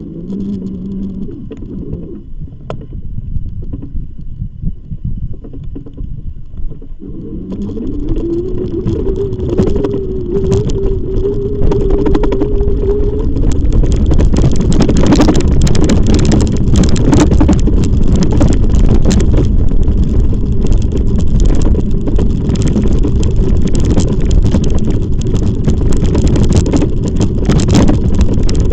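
Wind rumbling over the microphone of a camera on a moving e-bike, growing louder as the bike picks up speed about eight seconds in and again around twelve seconds. A steady whine rises in pitch at the same moment and then holds.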